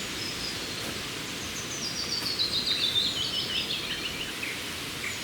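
A songbird sings one phrase about a second and a half in: a quick run of high notes that steps steadily down in pitch over about three seconds. A steady hiss of forest ambience runs underneath.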